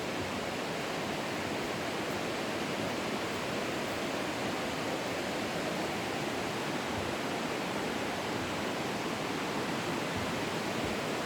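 Steady rush of flowing creek water, an even hiss with no break or change.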